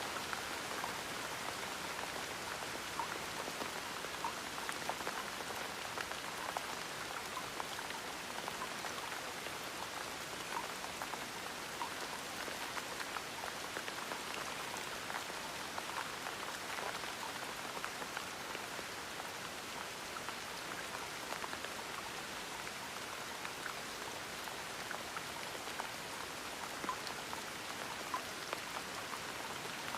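Gentle, steady rain: an even hiss of rainfall with many small scattered drop ticks on a surface.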